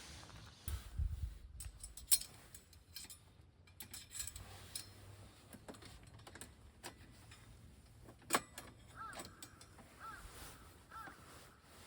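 Scattered light clicks and knocks of things being handled, one sharper knock about eight seconds in, with three short chirps near the end.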